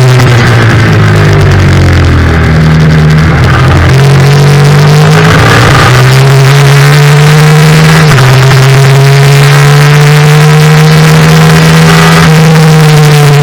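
A Yamaha FZ-07's 689 cc parallel-twin engine at racing speed. It drops in revs over the first two seconds as the bike slows for a corner, then revs up hard, with a brief dip at a gear change about eight seconds in, and drops again near the end. Loud wind noise runs underneath.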